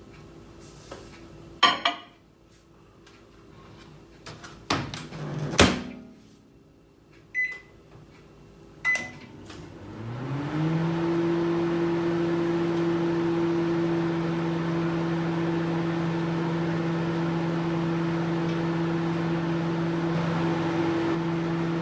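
Microwave oven being set and started. A few clunks, two short keypad beeps, then about ten seconds in the oven starts up: its hum rises briefly in pitch and settles into a steady drone with fan noise.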